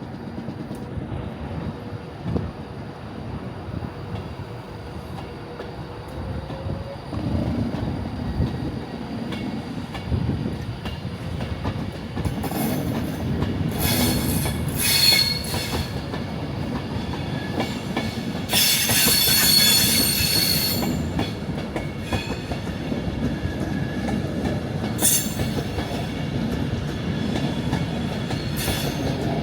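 A passenger train rolling along the rails with a steady low rumble, broken by several bursts of high-pitched wheel squeal. The longest squeal comes about two-thirds of the way in.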